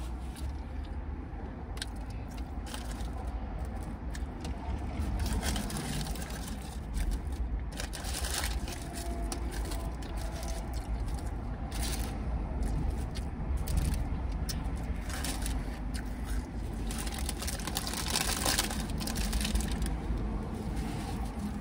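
A person chewing and crunching food with scattered irregular clicks and crackles, over a steady low rumble.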